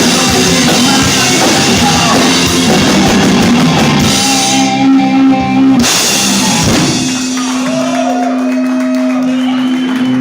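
Live rock band playing loud with drum kit, electric guitars and singing. About four seconds in the band holds a chord that cuts off sharply near six seconds, leaving a single sustained guitar note ringing with some sliding guitar tones over it.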